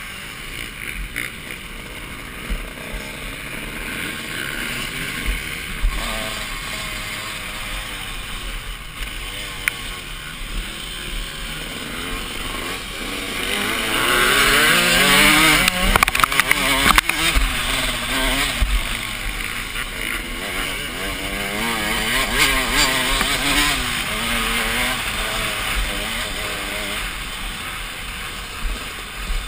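Motocross bike engine revving up and down as it is ridden round the track, heard from a helmet camera with wind rumble on the microphone. It gets loudest about halfway through, with a few sharp knocks around then.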